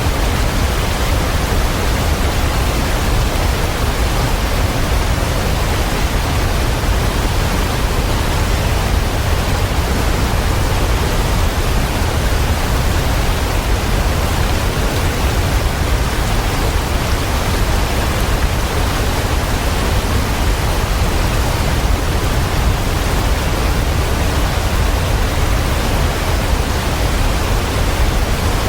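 Waterfall: falling water rushing in an unbroken, even wash of sound, heaviest in a deep low rumble.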